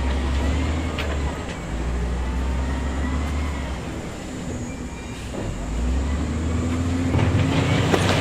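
Heavy diesel earthmoving machinery running under load, its engine note drifting up and down with a few sharp clanks, getting louder about seven seconds in.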